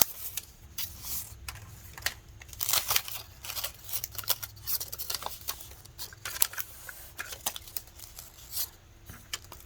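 Irregular small crinkles and clicks of paper handling as mini glue dots are peeled from their backing strip.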